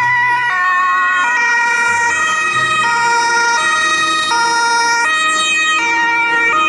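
Electronic ambulance siren sound, buzzy and loud, its pitch stepping between tones about every three-quarters of a second.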